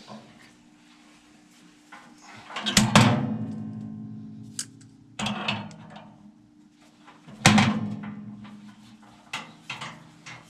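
Hand-tool work on a furnace blower assembly: two loud metallic clanks, about three seconds and seven and a half seconds in, each ringing out like struck sheet metal, with lighter clinks between.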